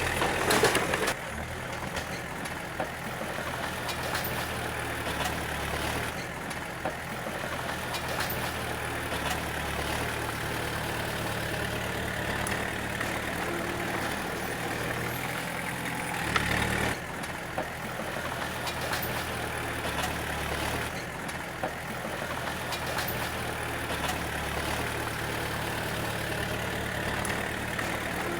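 D20 bulldozer's diesel engine running steadily, with two short louder rushes of noise, one about a second in and another about seventeen seconds in.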